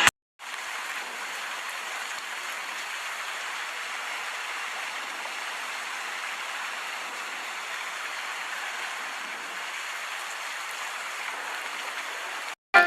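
Steady rain falling, an even hiss with no bass. It cuts in just after the start and cuts off abruptly just before the end.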